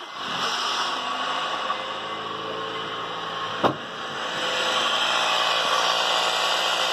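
Honda Civic Type R's K20A2 2.0-litre four-cylinder engine starting and idling with a steady hissing whirr, the noise the owner puts down to a failed bearing in the accessory belt tensioner pulley. A single knock a little past halfway, and the sound grows louder about four seconds in.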